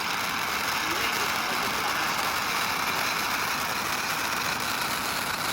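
Ground fountain firework (huoshu yinhua, a non-exploding sparks fountain) spraying sparks with a steady, dense crackling hiss and no bangs.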